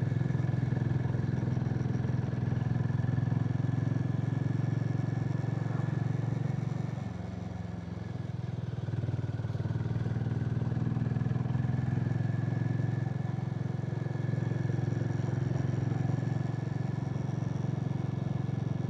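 Harley-Davidson X440's single-cylinder engine running steadily while riding, easing off about seven seconds in and then picking up again.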